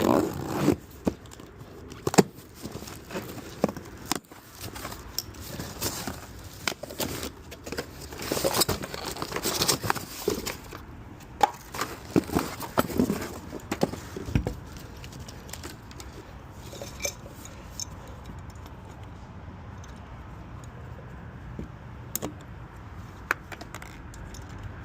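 Metal parts and hand tools clinking and knocking in a run of irregular sharp clanks, thinning out to a few isolated clicks over a steady low background after about fifteen seconds.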